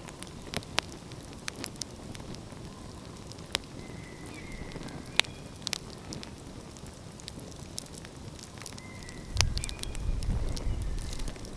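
Wood fire crackling with scattered sharp pops, with faint brief high whistles now and then. A low rumble rises for about two seconds near the end.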